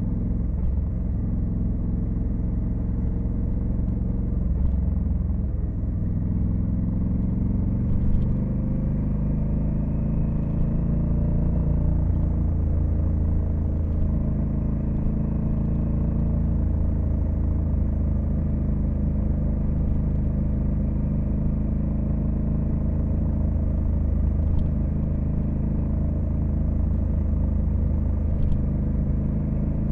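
Honda Africa Twin CRF1100L's 1084 cc parallel-twin engine running on the road. It climbs in pitch over several seconds as the bike accelerates, then holds a steady cruise.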